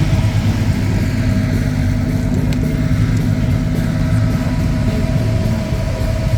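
A car engine running steadily at idle, a low, even rumble with no revving.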